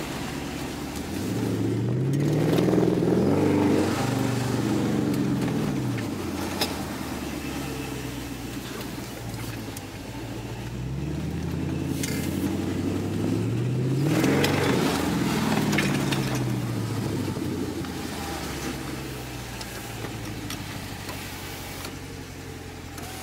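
The 6.4-litre HEMI V8 of a 2013 Dodge Charger SRT8, heard from inside the cabin, revving up under acceleration and then dropping back. It does this twice, about two seconds in and again around twelve to fifteen seconds in, and runs more quietly at low revs between the pulls and near the end.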